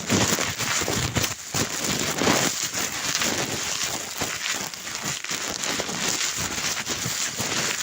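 Dense crackling, rustling noise made of many small crackles, with brief dips in level.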